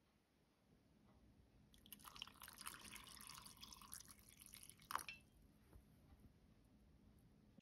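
Faint water sound, like water trickling or pouring, for about three seconds, then a single light click about five seconds in.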